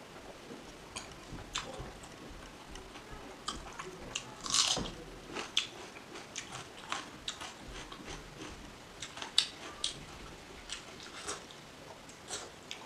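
Close-up mouth sounds of a person chewing fried egg: irregular soft clicks and smacks of eating, with one louder smack about four and a half seconds in.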